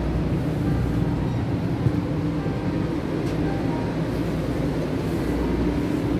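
Steady running noise of a Series 500 Shinkansen bullet train heard from inside its cars: an even low rumble with a faint steady hum, and one brief knock about two seconds in.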